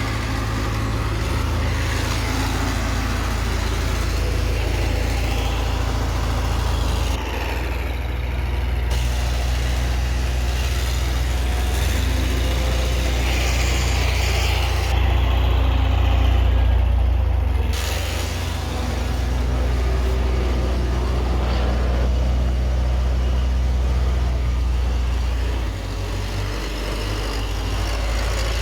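A heavy engine idling, a continuous low rumble.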